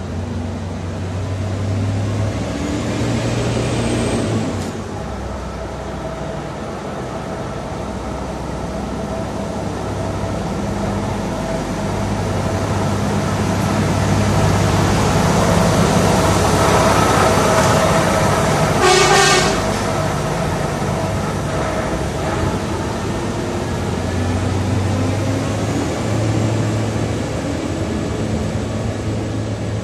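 EM120 track-inspection car passing along a station platform: its diesel engine runs and its wheels roll on the rails, growing louder as it comes alongside and easing off as it moves away. A brief rattling burst comes about two-thirds of the way through.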